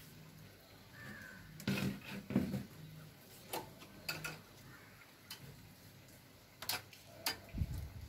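Outdoor birds calling: a short high chirp about a second in, then a few brief harsh calls, with sharp isolated ticks scattered between them over a faint steady background.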